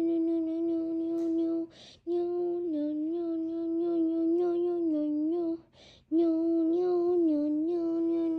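A single voice sings or hums long held notes at one steady middle pitch, in phrases of about three to four seconds. The pitch wavers only slightly. The phrases are separated by short intakes of breath, about two seconds and six seconds in.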